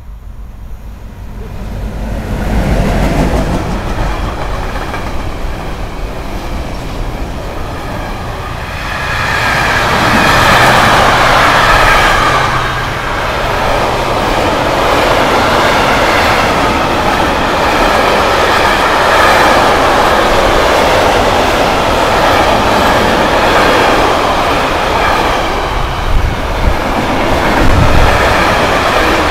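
A freight train hauled by an electric locomotive goes by at speed: a loud steady rumble of steel wheels on rail that builds over the first few seconds as the locomotive arrives. The rumble holds as a long string of container wagons rolls past, with a few sharper clacks over the rail joints near the end.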